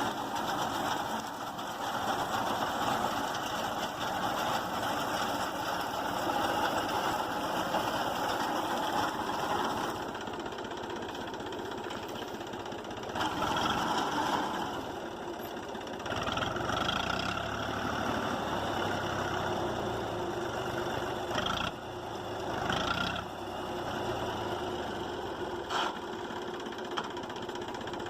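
Tractor engine running steadily while driving a reaper binder. The sound shifts a few times, with short louder patches near the middle and later on.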